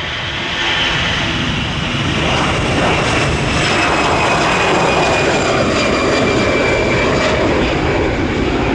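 Jet airliner's engines running loud as it passes close, a rushing roar building about a second in, with a high whine that slowly falls in pitch.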